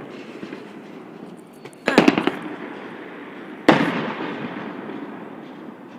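Fireworks going off: a quick cluster of crackling bangs about two seconds in, then a single sharp bang that rumbles away slowly.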